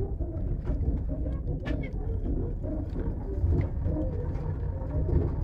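Passenger train carriage in motion: a steady low rumble from the running gear, with scattered short clicks and knocks and faint wavering tones above it.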